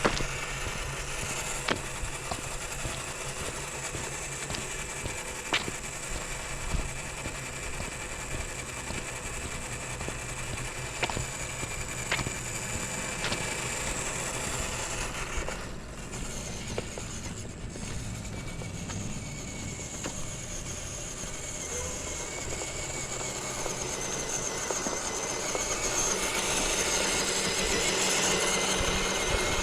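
Small electric motor and gear drive of an RC4WD TF2 scale crawler whining steadily as the truck drives, with a few sharp clicks along the way. The whine grows louder over the last few seconds.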